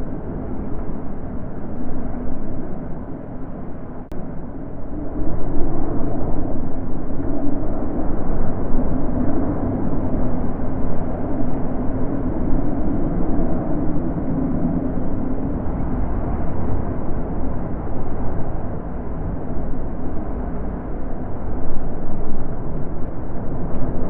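Wind blowing in gusts: a low, rushing noise that swells about five seconds in and again near the end.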